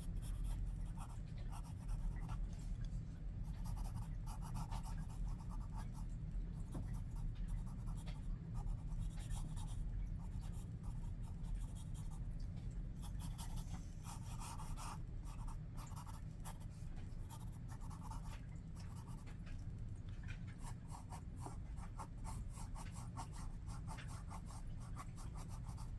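Graphite pencil scratching across paper in quick, repeated sketching strokes, over a steady low hum.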